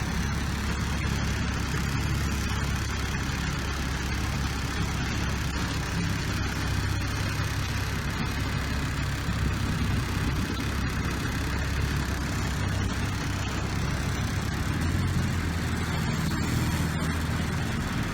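A boat engine running steadily, with a low hum under a broad rushing noise; the low note shifts slightly near the end.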